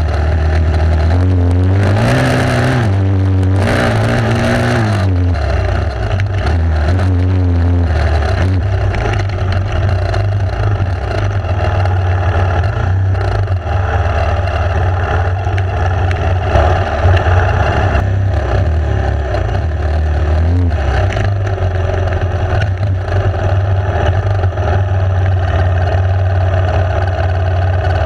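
Enduro motorcycle engine running while riding. Its pitch rises and falls with the throttle over the first few seconds, then holds fairly steady. Two short bursts of hiss come about two and four seconds in.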